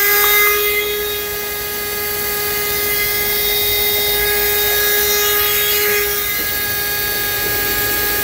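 Portable car vacuum cleaner's small electric motor running steadily: a high whine over a rush of air, used to blow the fire's coals back to life. The main tone fades about six seconds in while the airflow carries on.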